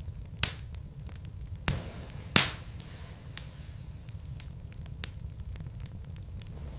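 Logs burning in a fireplace: a steady low rumble of the fire with sharp crackles and pops. Three loud pops fall in the first two and a half seconds, the loudest about two and a half seconds in, followed by scattered lighter ticks.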